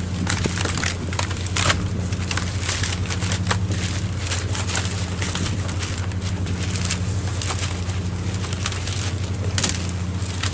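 Fishing boat's machinery droning steadily, with irregular clatter and sharp knocks of work on deck over it.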